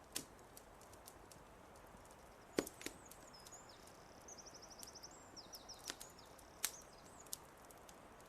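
Wood fire crackling with scattered sharp pops, two of them louder, about a third of the way in and near three quarters of the way. A small songbird chirps and gives a short high trill in the middle.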